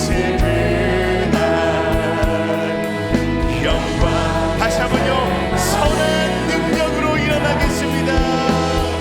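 Live church praise band playing with singers, drums and keys. A cymbal crash comes about halfway through.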